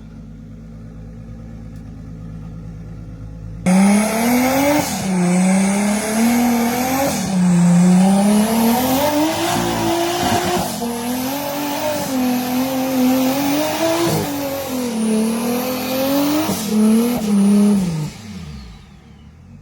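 Toyota 2JZ straight-six in an off-road Jeep Cherokee XJ revving hard under load, its pitch rising and falling again and again as the throttle is worked, with a hiss above it. A low rumble comes first, the loud revving starts suddenly about four seconds in, and the revs fall away near the end.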